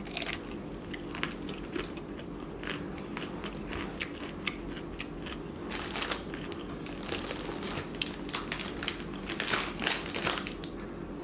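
Close-up mouth sounds of a person chewing a mouthful of crab and shrimp ceviche, with many small crunching clicks. A louder run of crackling near the end comes as a crisp corn tostada is handled.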